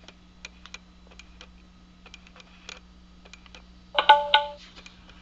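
Scattered light clicks, then about four seconds in a short electronic chime of a few quick tones: a Parrot Bluetooth car adapter powering on.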